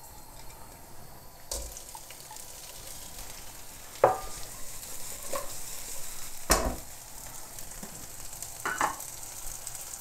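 Garlic and then shrimp sizzling in hot oil in a wok, a steady hiss. Four sharp knocks and clatters from the pan and food going in stand out over it; the loudest come about four and six and a half seconds in.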